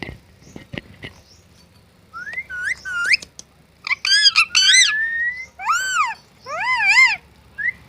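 Pet parrot whistling and calling: a few short rising whistled notes starting about two seconds in, then a run of louder arched, up-and-down notes.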